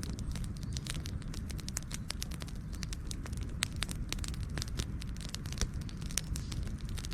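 Fire crackling: frequent irregular sharp pops and snaps over a steady low rumble of the flames.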